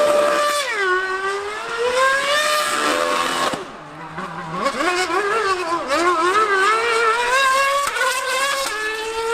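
High-revving racing engines of a Formula One car and a 1000cc superbike on track, their pitch climbing and dropping repeatedly with throttle and gear changes. The sound dips briefly about halfway through and then comes back up.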